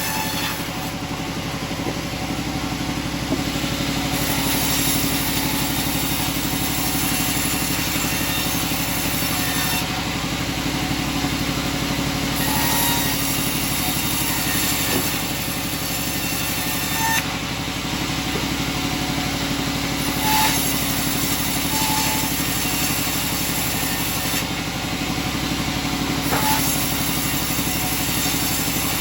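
Sawmill machinery running steadily: a droning, engine-like hum, with a higher hiss that comes and goes every few seconds.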